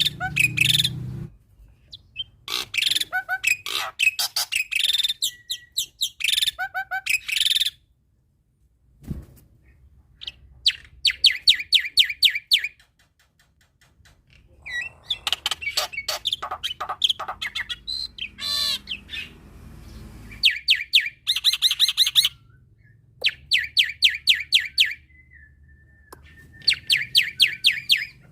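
Male black-winged myna (jalak putih) singing a loud, varied song: bursts of fast repeated sharp chattering notes, several seconds each, broken by short pauses and mixed with a few whistled gliding notes.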